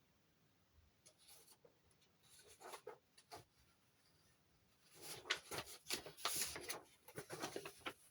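Faint rustling and clicking of objects being handled, sparse at first and busier in the second half.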